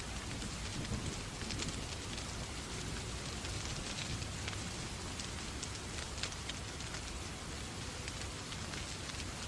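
Steady rain, with scattered small crackles of a wood fire in a fireplace and a low rumble underneath.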